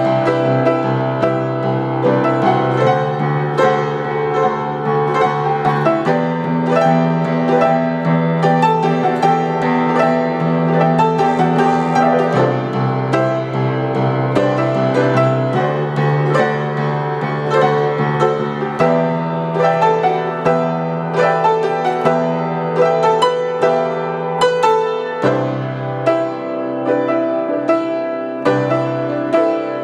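Instrumental music: a piano playing a flowing passage of quick notes over low bass notes that change every few seconds.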